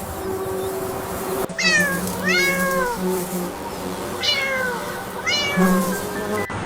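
A cat meowing four times, each call sliding down in pitch, over a steady low hum.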